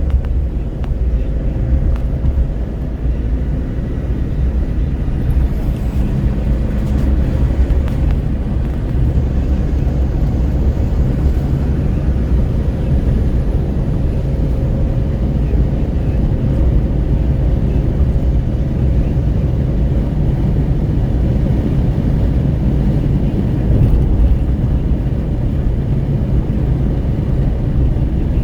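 Steady wind and road noise inside a Renault Kwid 1.0 at highway speed, with wind buffeting at the window over a low, even rumble from the tyres and engine.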